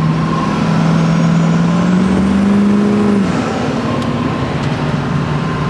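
LB7 Duramax 6.6-litre V8 turbodiesel pulling hard under acceleration, heard from inside the cab, with the whistle of its 68 mm turbo climbing in pitch. About three seconds in, the engine note and the turbo whistle drop away together.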